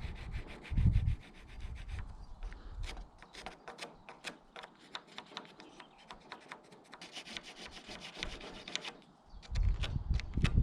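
A hand tool worked on wood in quick, even rubbing strokes, about four or five a second, as when a new gate part is sawn or rasped by hand. Heavier thumps of handling come about a second in and again near the end.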